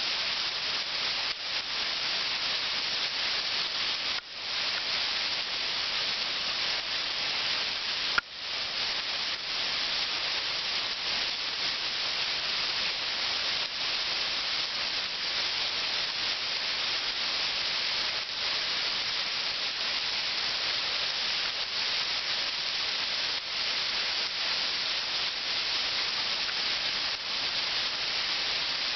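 Waterfall splashing down in a steady, even hiss, with a sharp click and a brief drop in level about eight seconds in.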